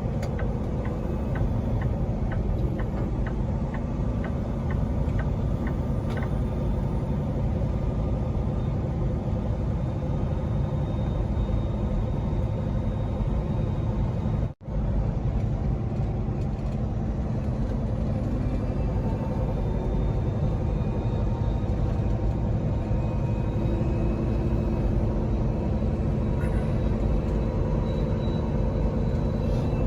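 Peterbilt 389 semi truck driving at road speed: a steady engine and road rumble. A run of light, evenly spaced ticks sounds for the first few seconds, and the sound cuts out for an instant about halfway.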